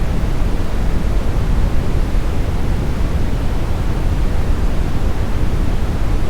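Smoothed brown noise: a steady, even rush of synthetic noise, strongest in the deep low end and rolling off toward the highs, with no changes or events.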